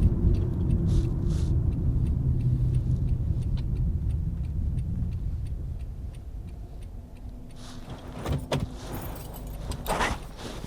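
Inside a 2010 Toyota Corolla's cabin, the low road and engine rumble fades as the car slows to a stop, with faint light clicks and rattles throughout. A few short knocks sound near the end.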